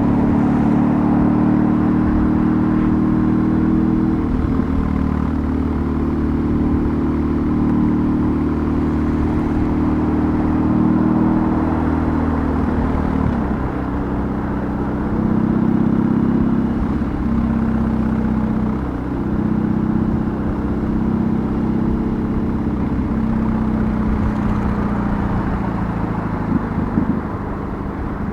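BMW R18's 1802 cc boxer twin engine running under way, its note dipping and climbing several times as the rider changes gear and works the throttle, over wind and road noise.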